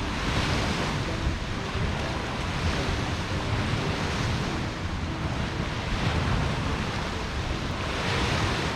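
Storm wind blowing hard across the microphone: a steady rushing noise with deep buffeting rumble, swelling in gusts.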